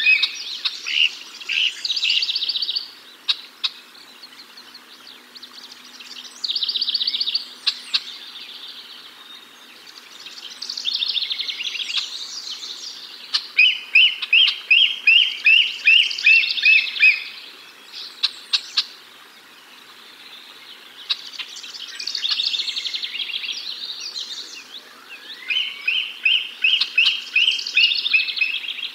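Birds calling outdoors: short phrases of rapid, high, slightly falling chirps, repeated every few seconds.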